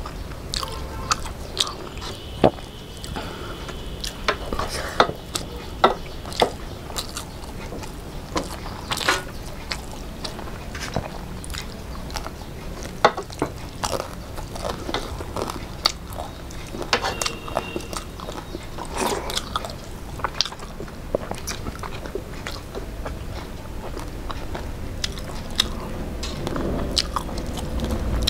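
Close-up eating sounds of people eating fried hilsa fish and rice with their hands: chewing and crunching, with many sharp mouth clicks scattered irregularly throughout.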